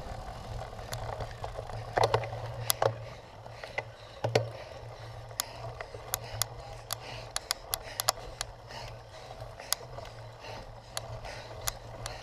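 Cyclocross bike rattling over rough ground, with sharp clicks and knocks scattered irregularly over a steady low hum.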